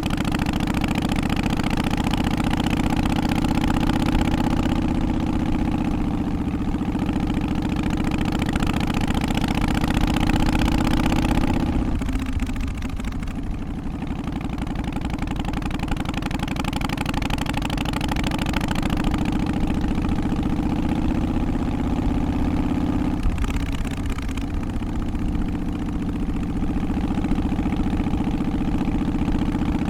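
Harley-Davidson FXST Softail's Twin Cam 88 air-cooled V-twin idling with its uneven, loping "three-beat" rhythm. The sound softens briefly twice, about twelve seconds in and again around twenty-three seconds.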